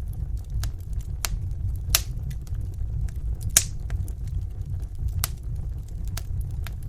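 Fireplace fire crackling: scattered sharp pops over a steady low rumble, with two louder pops about two and three and a half seconds in.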